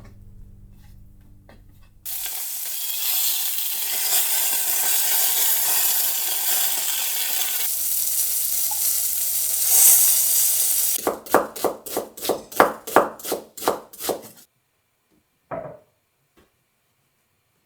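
Food sizzling as it fries in a hot pot, starting suddenly about two seconds in. Then comes a run of about a dozen quick, even strokes of stirring or scraping, and one short sound near the end.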